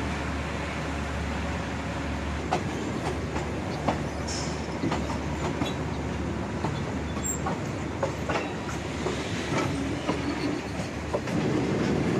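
Passenger train running along the line: a steady rumble with wheels clacking and knocking irregularly over the rails, growing louder near the end.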